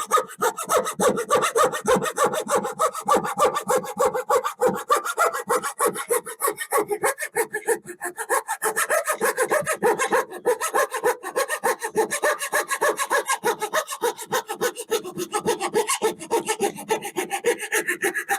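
Handsaw cutting through a wooden board in rapid, even back-and-forth strokes, several a second, following a marked line.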